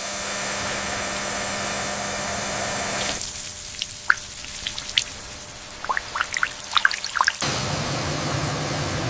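Water spraying from a hose in a steady hiss, rinsing down the truck. About three seconds in the spray stops and water drops drip and plink for several seconds, then the spray starts again near the end.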